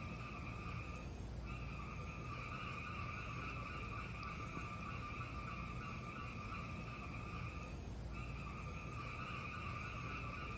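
Fireplace sound: a steady low rumble of burning with a high, even hiss over it that breaks off briefly twice.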